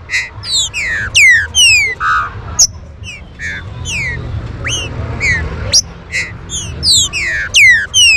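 Green-winged saltator (trinca-ferro) calling: a quick, uneven series of short, sharply falling whistled notes, several close together and overlapping.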